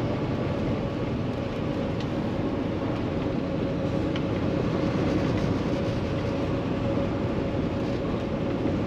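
Steady in-cab drone of a 2016 Kenworth T680 semi truck on the move: its Paccar MX13 diesel engine and road noise, with a faint steady hum.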